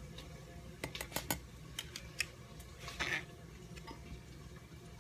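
Cans of black beans being handled: a quick run of light metallic clicks and taps about a second in, a short scraping rustle around three seconds in, and a sharper click at the end.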